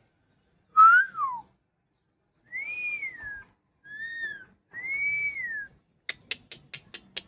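Four clear whistles: a short sliding one, then three arching whistles that each rise and fall. A quick run of about eight sharp clicks follows near the end.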